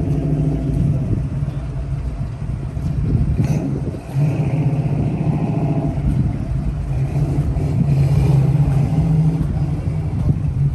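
A car engine running with a steady low rumble, which dips briefly about four seconds in and then carries on.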